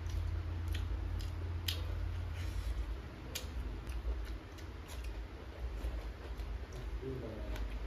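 Close-up eating sounds: a person chewing food with scattered sharp, wet mouth clicks, over a steady low hum.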